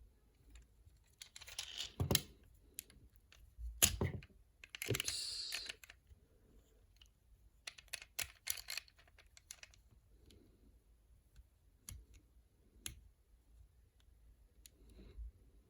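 Hands handling a plastic toy figure and its packaging: scattered sharp clicks and knocks of hard plastic parts, with two rustling, scraping passages about a second long, one early and one about five seconds in.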